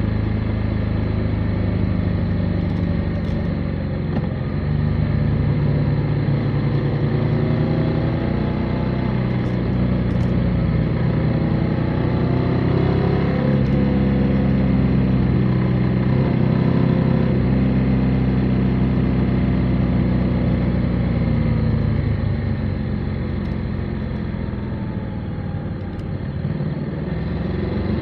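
Motorcycle engine running while riding, its pitch rising and falling with the revs through the curves; it eases off and drops lower late on, then picks up again near the end.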